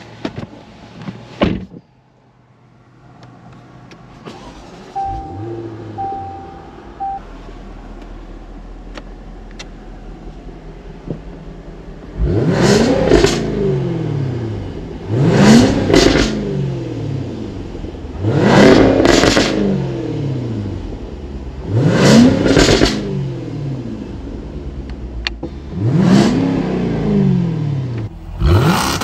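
Jaguar F-Type R75's supercharged 5.0-litre V8 comes to life about five seconds in and idles, then is revved in place five times, each blip rising sharply in pitch and falling back to idle.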